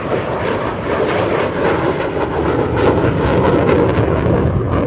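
Saab AJS 37 Viggen's Volvo RM8 afterburning turbofan at high power just after takeoff: a loud, dense jet roar with a crackle that is strongest about three to four seconds in.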